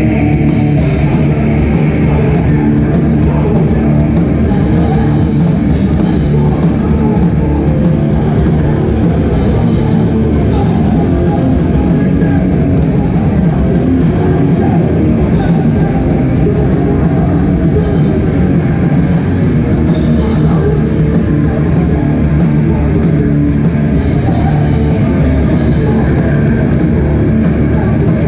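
Hardcore band playing live at full volume: distorted electric guitars, bass and a drum kit with crashing cymbals, heard through a loud venue PA.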